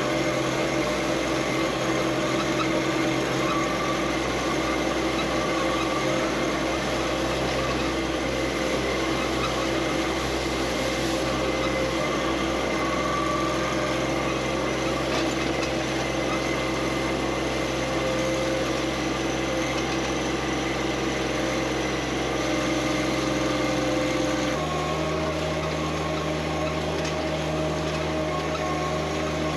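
Tractor engine running steadily; its note changes abruptly near the end.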